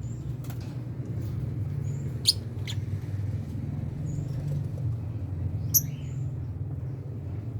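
Lovebirds chirping: two short, sharp, loud chirps, about two seconds in and again near six seconds, with a few fainter brief high peeps between, over a steady low background rumble.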